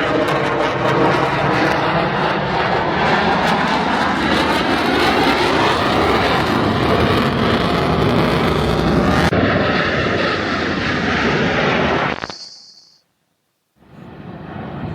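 Airplane flying past low and loud, its engine noise sweeping in pitch as it goes by, then turning duller and fading away to a brief silence before sound returns near the end.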